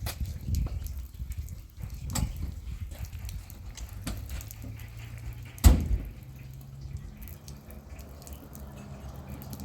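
Scattered light knocks and handling noises, then a door slamming shut with a single loud bang a little past halfway. A low steady hum follows the slam.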